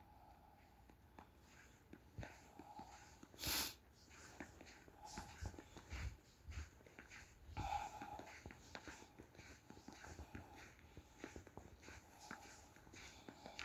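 Quiet footsteps and small handling noises from someone walking, with a brief loud rustle about three and a half seconds in.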